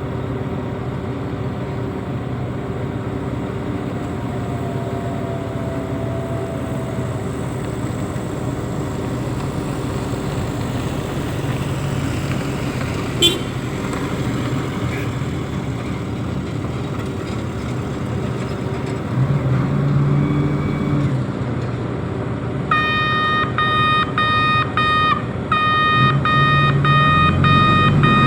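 Reach stacker's diesel engine running steadily, with one sharp click midway. From about 23 s in, an electronic warning beeper sounds at about two beeps a second, the machine's travel or reversing alarm.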